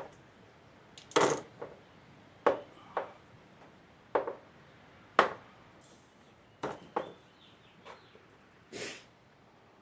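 About ten sharp clicks and clanks at irregular intervals, the sound of hand tools and fittings being handled while a fuel line on a mower engine is loosened.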